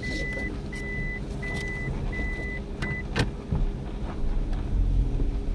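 A 2007 Toyota Prius's in-car warning beeper sounding a steady high beep about one and a half times a second, five beeps, the last one cut short about three seconds in. A sharp click follows, and the car's low running rumble grows louder toward the end.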